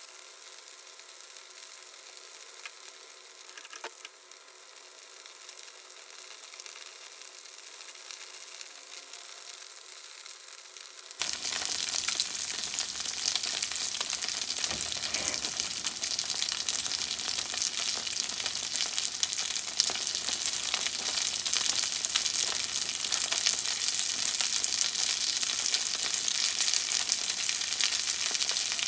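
Frozen gyoza sizzling and crackling as they pan-fry in a nonstick frying pan, the bottoms crisping to a golden brown lattice. The sizzle is thin and quieter at first, then about eleven seconds in it becomes much louder and denser, a steady crackle.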